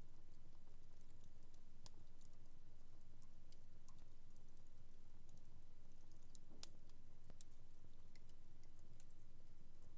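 Wood fire crackling in a fireplace: faint, irregular pops and snaps, a few of them sharper, over a low steady hum.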